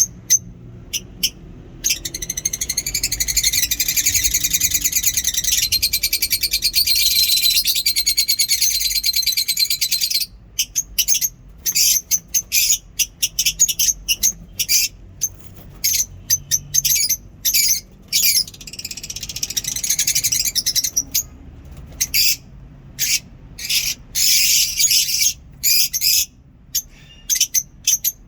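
A flock of lovebirds in an aviary chirping and chattering, all high-pitched. Short sharp chirps alternate with stretches of dense, continuous chatter: one long stretch from a couple of seconds in, and shorter ones past the middle and near the end.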